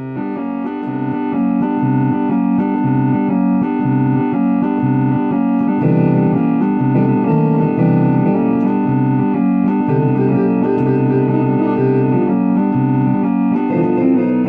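Electronic organ playing, starting abruptly: held chords over a bass line that steps between notes.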